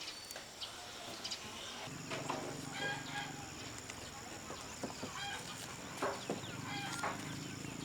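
Chickens clucking in short calls, over scattered light clicks. A low steady hum comes in about two seconds in.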